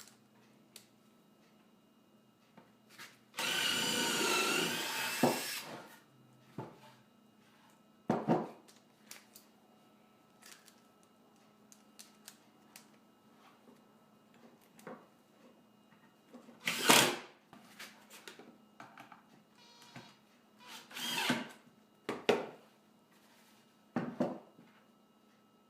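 Power drill driving a screw into plywood: it runs once for about two seconds. Short knocks and handling sounds of the wood follow.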